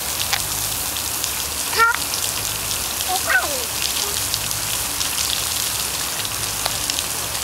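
Steady rain falling, with many small drop ticks. A child's voice is heard briefly about two seconds and three and a half seconds in.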